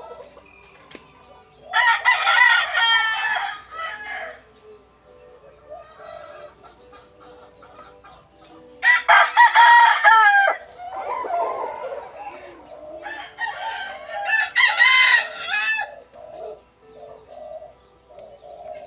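A bird calling three times, a few seconds apart. Each call is loud, pitched and drawn out, lasting about one and a half to two seconds.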